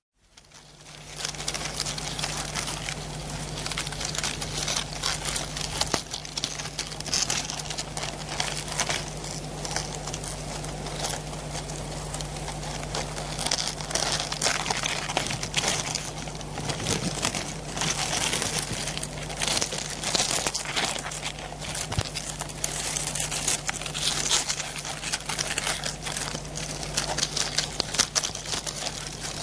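Dense, irregular crackling and crinkling, like material being handled or rustled, over a steady low electrical-sounding hum.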